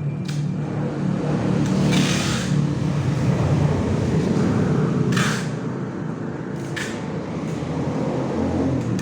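A steady low mechanical rumble, like an engine running, with four short hissing or knocking sounds over it.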